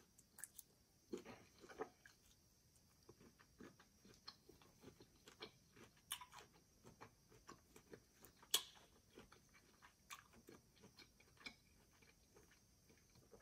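Quiet, close-up chewing of cold cooked shrimp: a steady scatter of soft wet mouth clicks and smacks, with one sharper click about eight and a half seconds in.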